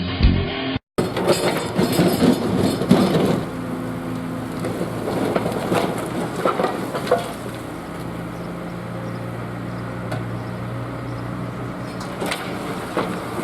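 Digger breaking up an old concrete yard: about a second in comes a loud crunching and cracking as the bucket breaks and lifts the slab. After that the diesel engine runs on steadily, with a few knocks of concrete.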